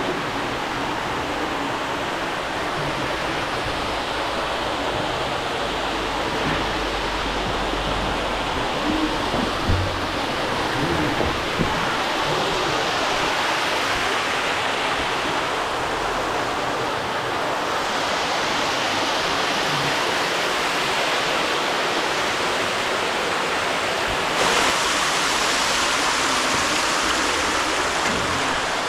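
Water running through a cave, a steady rushing that gets brighter and a little louder about two-thirds of the way in.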